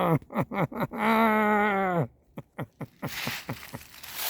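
A man's voice: a quick run of short wordless sounds, then one long drawn-out wail held for about a second and falling off at the end. A few clicks and a noisy rush follow near the end.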